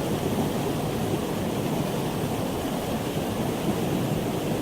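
Steady rush of running water in a cold mountain stream.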